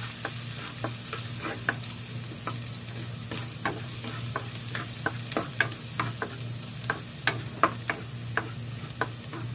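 Garlic sizzling as it fries in hot coconut oil in a pan, with frequent irregular sharp pops and clicks.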